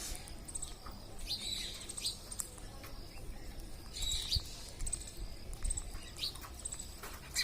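Parrots calling: short, high, shrill calls repeated every second or so, some sliding in pitch.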